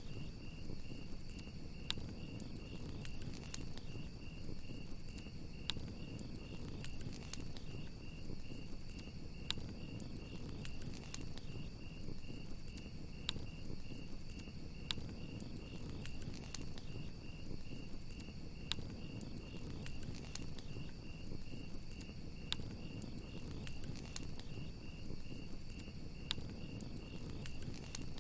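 Crickets chirping in a steady rapid pulse, over a campfire crackling with scattered sharp pops and a low rumble of flames.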